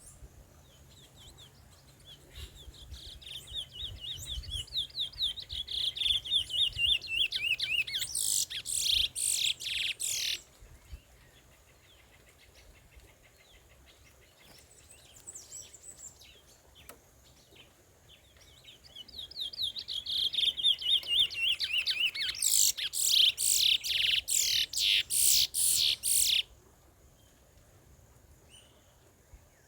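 Curió (chestnut-bellied seed finch) singing two long song phrases, each several seconds long. Each opens with rapid trilling notes that grow louder and ends in a run of loud, very high notes that cuts off suddenly.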